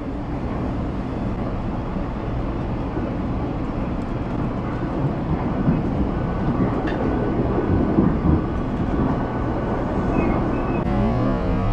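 Steady rumble of a passenger train running on the rails, heard from inside the carriage, with a few faint clicks.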